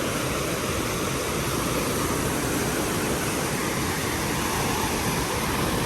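Steady rushing noise of moving water at a water park pool, with a low, uneven rumble underneath.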